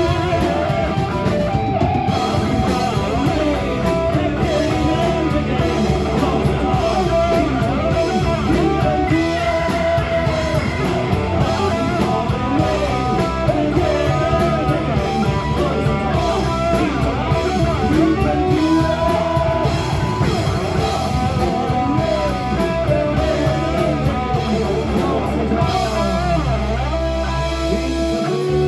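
Live rock band playing: electric guitar over bass and drum kit.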